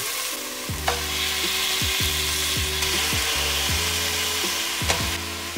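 Chopped onion and garlic sizzling in hot oil in a stainless steel pot, with two short knocks, about a second in and near the end. Background music with a steady beat and bass notes plays underneath.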